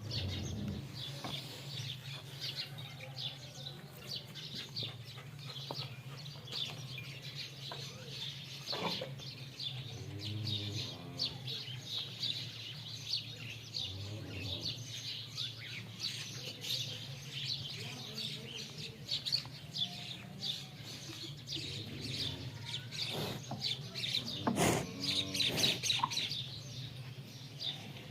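Many small birds chirping continuously over a steady low hum. Twice, about ten seconds in and again near the end, a short pitched call or voice is heard.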